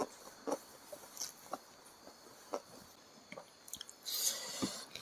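A person chewing a mouthful of rice and chicken gizzard in green sambal, with scattered soft wet mouth clicks and smacks. A brief crisp rustle near the end.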